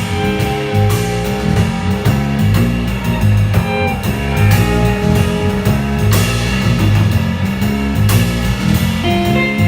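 Live jazz combo playing: an electric guitar carrying the melody over a walking bass line, with piano and drum kit keeping time on cymbals.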